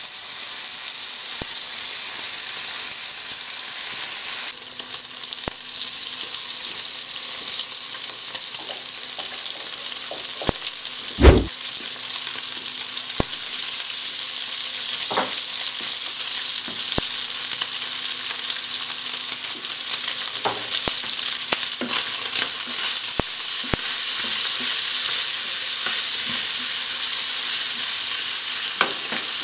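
Diced chicken breast sizzling in hot oil in a nonstick frying pan, with scattered clicks and knocks from a wooden spoon stirring the pieces. One knock partway through is much louder than the rest.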